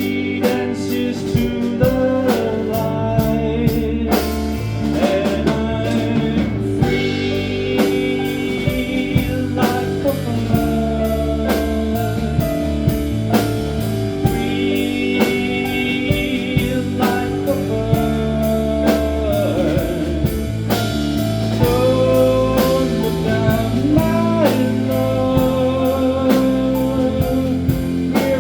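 Live rock band playing a blues-rock song: drum kit keeping a steady beat under guitar and bass, with bending, held melody lines and singing.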